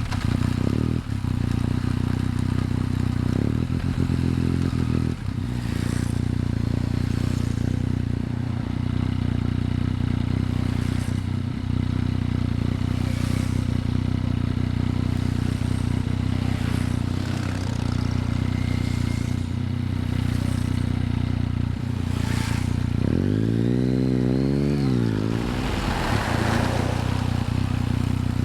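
Yamaha MT-09's three-cylinder engine idling steadily, with one throttle blip rising and falling in pitch near the end. Light clicks and scrapes are heard over the idle.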